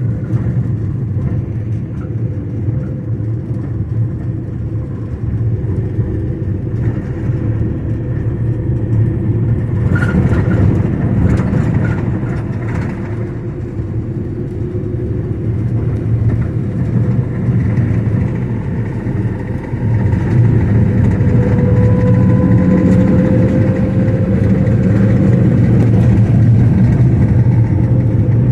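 A motor vehicle's engine and road noise running steadily. The engine pitch rises slowly in the second half.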